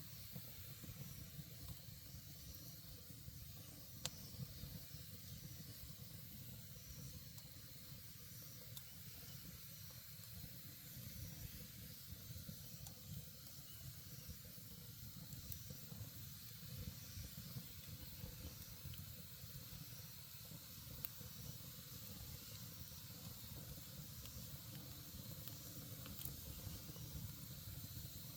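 Campfire burning with a faint steady hiss and a few sharp crackling pops, the loudest about four seconds in.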